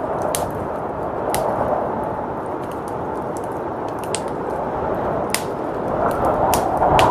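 Wood fire crackling with scattered sharp pops over a steady rush of blizzard wind, which swells in a gust near the end.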